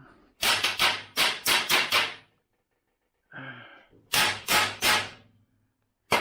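Hammer blows on metal in quick runs: about six strikes, a short grunt, then three more and one last strike near the end.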